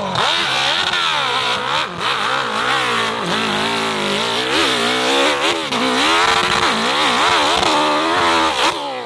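Racing motorcycle engine revving hard, its pitch rising and falling again and again as the throttle opens and closes, then dropping away at the very end.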